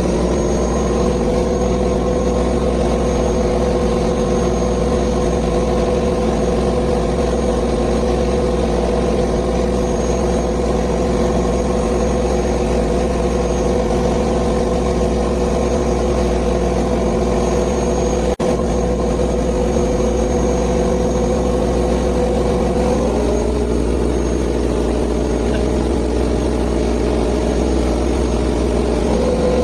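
Fishing boat engine running steadily with a constant drone. Its tone shifts slightly about 23 seconds in and settles back near the end.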